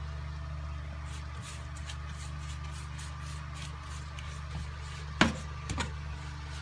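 A steady low hum, with a sharp knock about five seconds in and a softer one about half a second later.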